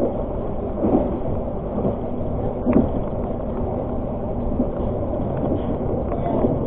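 Argo Parahyangan passenger train running along the track: a steady low rumble of wheels on rails, with a few short knocks, the loudest a little under three seconds in.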